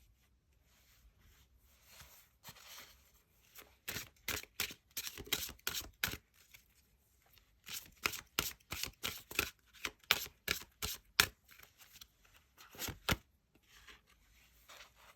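Tarot cards being shuffled by hand: quick runs of sharp card snaps and slaps, broken by a short pause in the middle and stopping a couple of seconds before the end.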